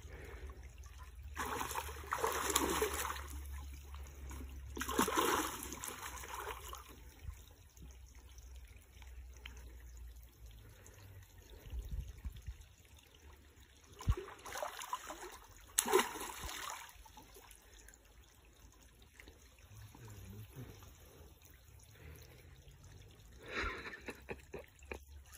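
Shallow stream water trickling steadily, broken by several short splashes as hands grope in the water, the clearest about two, five, fifteen, sixteen and twenty-four seconds in.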